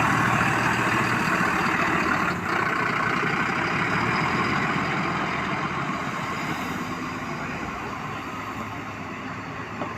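A large vehicle's engine running as it drives off, growing steadily fainter.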